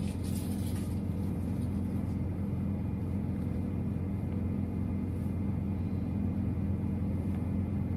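Semi truck's Detroit DD13 diesel engine running with a steady low hum, heard from the cab, with a brief hiss about half a second in.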